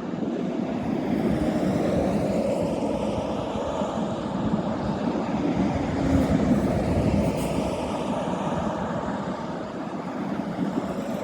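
Class 69 diesel-electric freight locomotive, with its EMD 710 engine, passing with its train: a steady heavy diesel rumble mixed with rail noise, swelling slightly about six to seven seconds in.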